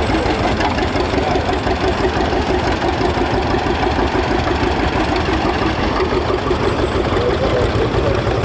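Vintage farm tractor engines running steadily as the tractors drive past in the arena.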